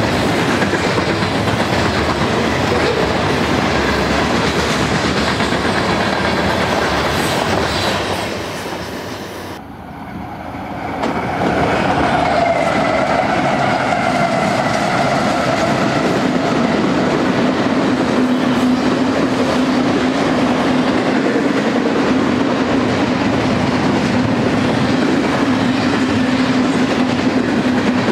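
Freight cars rolling past on the rails. After a fade and an abrupt cut about ten seconds in, Union Pacific GE diesel locomotives pass with their engines running, then double-stack container cars roll by, with a steady hum underneath.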